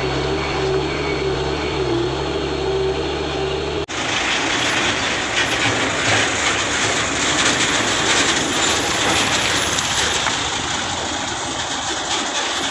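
Heavy truck engines running under load on a climb, a steady low drone at first; about four seconds in the sound cuts abruptly to a louder, hissing rush of vehicle noise.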